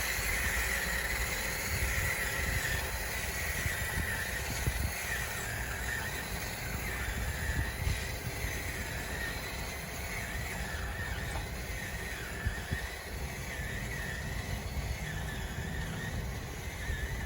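Small electric drive motors and gearing of a radio-controlled bulldozer running steadily, a whine that wavers in pitch with load over a low rumble.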